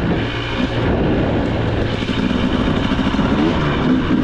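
KTM 300 XC two-stroke dirt bike engine running under a rider on a trail, the revs shifting, with a couple of short rises in pitch near the end.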